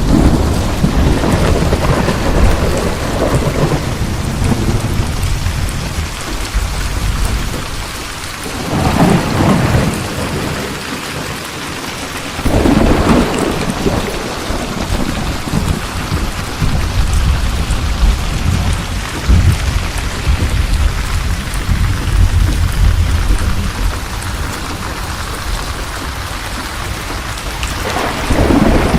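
Steady rain with thunder rumbling on and off, rising in several loud swells, the last one near the end.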